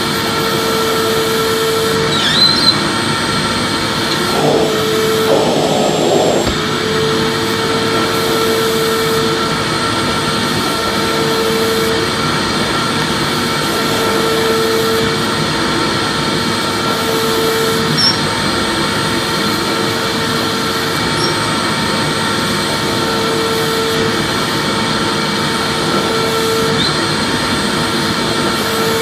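Vacuum cleaner running steadily with a constant whooshing motor noise and a few steady whining tones. A lower hum fades in and out about every two to three seconds.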